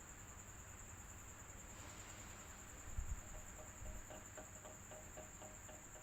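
Electric fan running with a steady, quiet whooshing hiss and a continuous high-pitched whine. A faint rhythmic ticking of about four to five a second comes in about halfway through, and two low thumps come around the middle.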